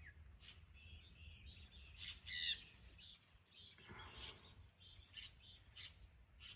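Birds chirping and calling with many short high chirps, one louder rapid call about two seconds in.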